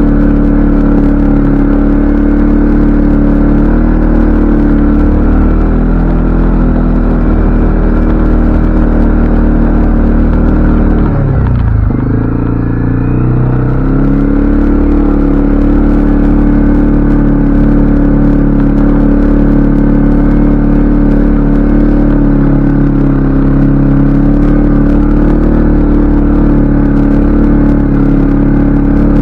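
CFMoto ATV engine running steadily under way. About eleven seconds in the engine speed drops off briefly, then picks back up around fourteen seconds in and runs steady again.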